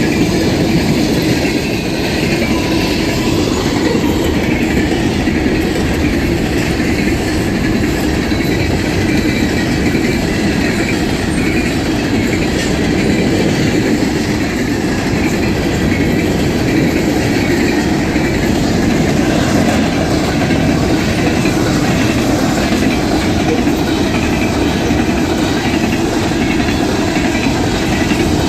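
Freight train cars rolling past at speed, a steady loud rumble of wheels on rail with rhythmic clicking over the rail joints.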